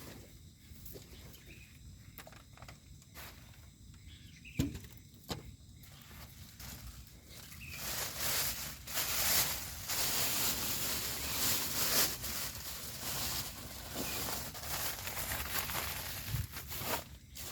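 Night-time outdoor ambience: faint steady insect chirring with a few scattered clicks, then a louder rustling and handling noise from about eight seconds in.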